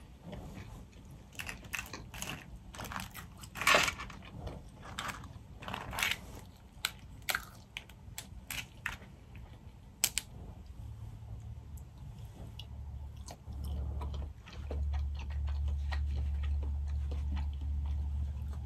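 Close-up eating sounds of boiled crawfish: chewing, with the crackle and snap of shells being cracked and peeled by hand. A low steady hum comes in about eleven seconds in and grows louder.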